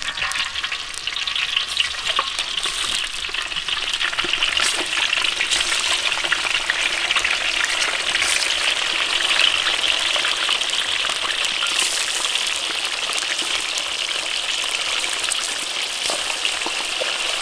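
Chunks of pork frying in a wok of hot oil: a dense, steady sizzle with constant small crackles as pieces are added to the pan.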